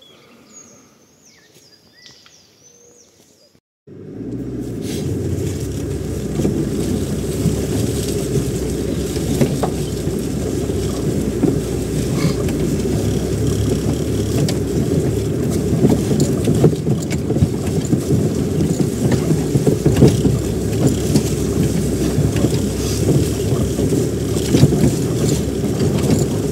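Faint birds chirping, then, from about four seconds in, the steady low rumble of a car driving on a rough, bumpy dirt road, with frequent small knocks and rattles.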